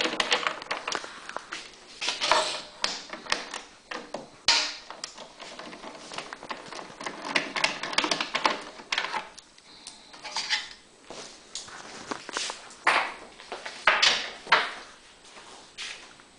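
A wrench at work on the small bolts at the bottom of a Champion generator's end cover: irregular clicks, scrapes and clatter of metal tools against metal and plastic.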